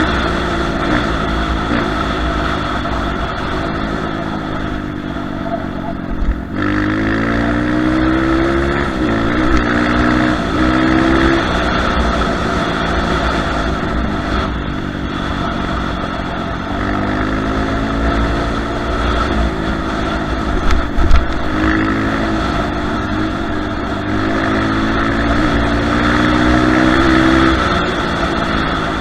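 Kayo TT140 dirt bike engine running, its revs climbing and dropping several times as the throttle is worked. There are a couple of loud thumps about three-quarters of the way in.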